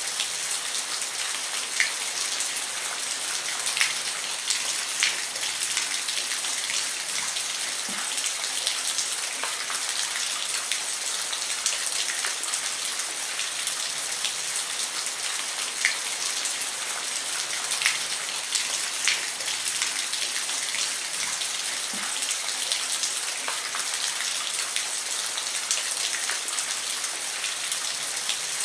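Steady rain on a roof, a constant hiss with many individual drops ticking sharply on the surface.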